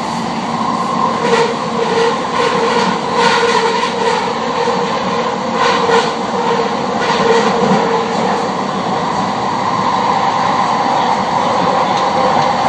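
Vancouver SkyTrain Canada Line train running at speed, heard from inside the car: a steady rumble under a two-tone whine, with clusters of wheel clicks and clacks over the track about a second in and again around six seconds.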